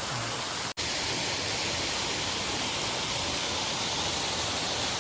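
Steady rushing of a small mountain waterfall, a continuous hiss of falling water. It breaks off for an instant under a second in and resumes slightly louder.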